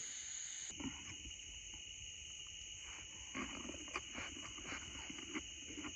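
Night insect chorus: crickets trilling steadily at two high pitches, with faint scattered clicks and soft low sounds beneath.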